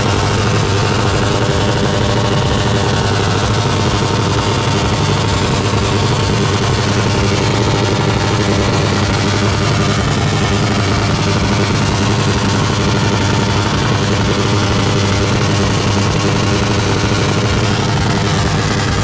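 Car engine running at a steady speed, a constant drone with no revving.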